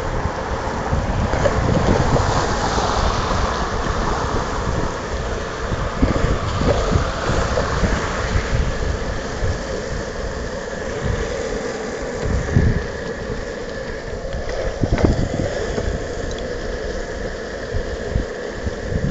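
Longboard wheels rolling over wet pavement with a steady watery hiss, under heavy wind buffeting on the microphone; a few short knocks partway through.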